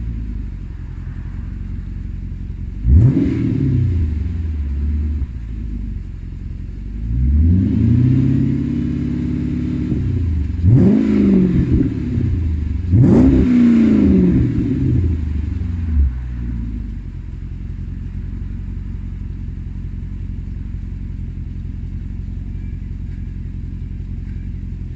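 Chrysler 300C's 5.7 HEMI V8 through a Fox exhaust with the intermediate muffler deleted, an X-pipe and stainless mufflers: idling, then revved four times, one rev held for a couple of seconds, before settling back to a steady idle.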